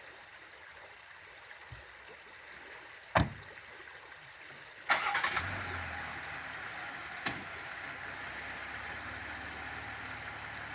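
A sharp thump about 3 seconds in, like a car door shutting. Near 5 seconds the 2020 Jeep Gladiator Sport's 3.6-litre V6 cranks and catches, then settles into a steady idle.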